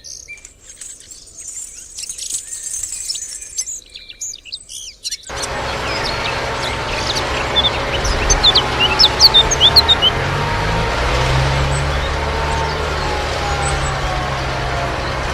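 Small birds chirping. About five seconds in, a steady mechanical running noise with a low hum starts abruptly and carries on under a burst of louder chirps.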